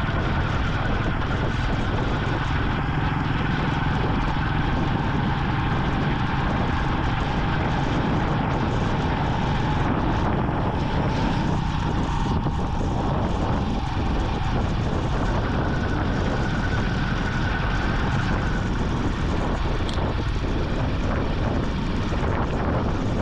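Vintage Yamaha motorcycle engine running at a steady cruising speed, under a constant hiss of wind and road noise, with a faint whine that comes and goes.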